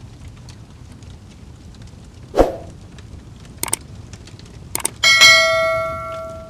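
Fireplace fire crackling and hissing, with a sharp knock about two and a half seconds in. Near the end a metallic clang rings out with a bell-like tone and fades over more than a second.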